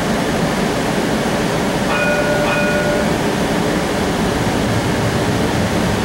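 Interior of a moving electric streetcar: a steady low rumble of the car running along the rails, with a brief high tone about two seconds in that lasts roughly a second.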